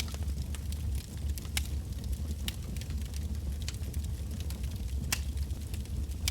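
Wood bonfire crackling, with scattered sharp pops of burning logs at irregular intervals over a steady low rumble.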